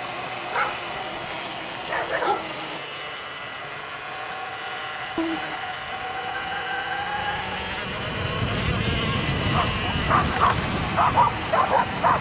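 Electric dirt bike riding, with a steady motor whine over tyre and wind noise that grows rougher about two-thirds of the way in. Near the end a dog barks repeatedly in quick succession.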